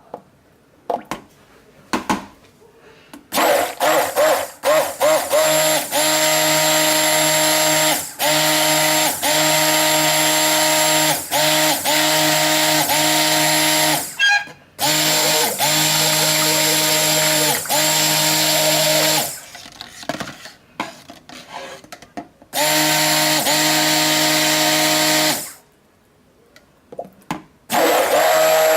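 Stick blender running in bursts, mixing hot-process soap batter toward thick trace. A steady motor hum that starts a few seconds in and stops and restarts several times.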